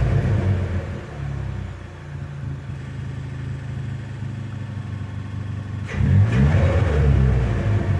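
2017 Ford Fiesta ST's 1.6-litre turbocharged four-cylinder running through a DNA Motoring 3-inch catback exhaust, with a deep, steady idle note. About six seconds in, the throttle is blipped and the exhaust note rises and falls in a quick rev.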